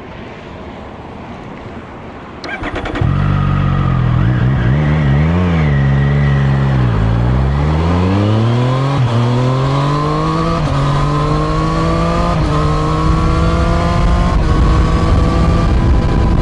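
A performance vehicle engine is cranked over by its starter and catches, is blipped a couple of times, then pulls hard up through the gears, its pitch climbing and dropping back at each of several upshifts.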